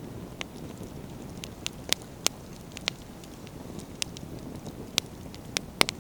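Wood campfire burning with a steady low rumble, and firewood popping and crackling in sharp irregular snaps, the loudest near the end.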